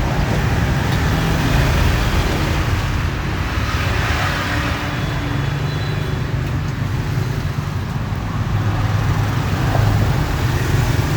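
Steady street traffic noise, with the low sound of passing vehicles.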